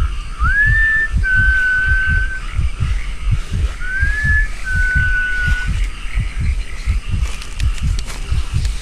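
A person whistling two calls, each a short upward slide into a held note, the second following about three seconds after the first. Under them runs a loud, uneven string of low thumps.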